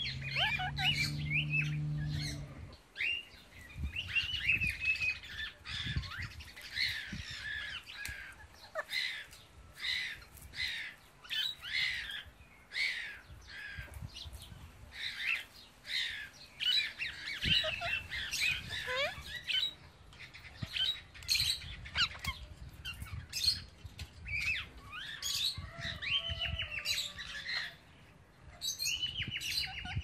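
Birds chirping and squawking in many short, quick calls, some in rapid runs, with a short lull near the end. A low hum sounds under the calls in the first couple of seconds.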